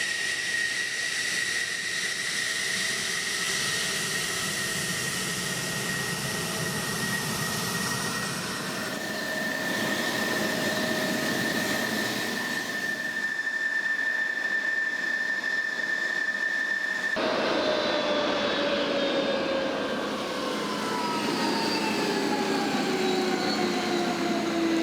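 Jet aircraft engines running with a steady high whine over a rushing noise. About two-thirds of the way through, the sound changes abruptly and several whining tones fall steadily in pitch.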